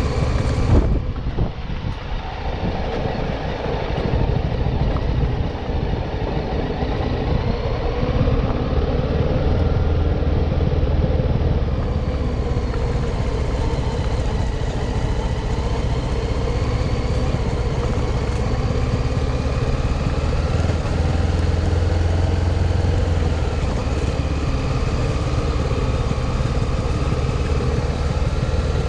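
CFMoto NK250's single-cylinder engine running under way, its pitch climbing and shifting as the revs change.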